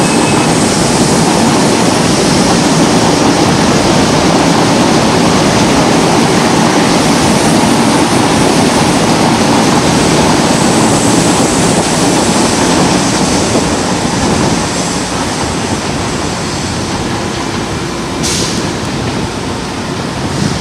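CPTM suburban electric train running past at speed: a steady, loud rumble and rush of wheels on rail that eases off somewhat in the last few seconds, with a brief high hiss near the end.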